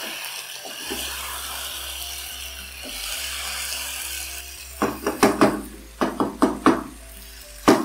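Chicken and tomato masala sizzling in a karahi while a wooden spoon stirs it. Past the middle comes a quick run of sharp knocks as the spoon strikes the pan, about eight in two seconds, and one more at the end.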